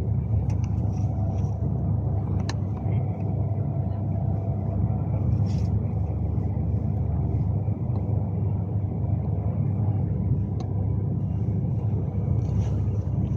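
Steady low rumble of a Class 390 Pendolino electric train running, heard from inside the carriage, with a few faint steady tones above it and occasional light clicks.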